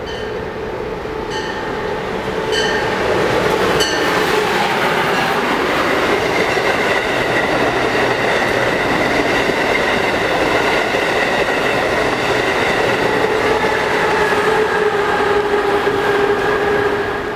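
An Amtrak Acela Express high-speed electric trainset passes at speed: a steady rush of wheels on rail with a whine running through it. It builds about two and a half seconds in and drops away sharply near the end.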